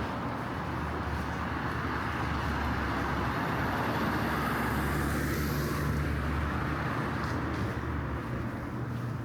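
A car on a wet street: a low engine hum under a steady hiss of tyres and rain, swelling a little around the middle.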